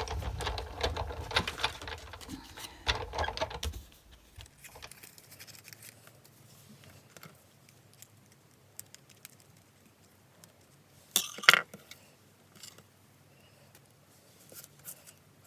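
Small craft supplies being handled on a desk: a busy clatter and rattle for the first few seconds, then occasional light ticks, and a sharp double knock about eleven seconds in.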